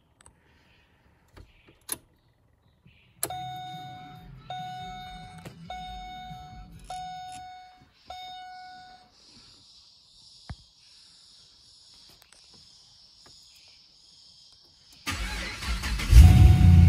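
A few clicks, then the car's warning chime dinging five times about once a second, then near the end the cold 307 kW 6.0-litre LS2 V8 cranks briefly and fires into a loud, low-pitched rumble on a cold start.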